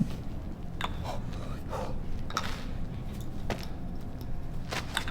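Steady low rumble with a handful of short, scattered clicks and knocks.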